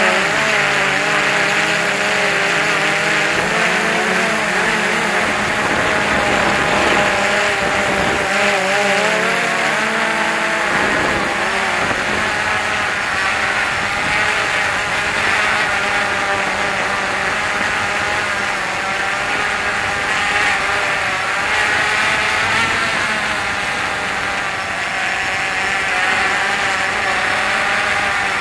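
DJI Phantom 2 quadcopter's motors and propellers whining, the pitch wavering up and down as the motors keep adjusting. From about ten seconds in, high wind rumbles on the microphone.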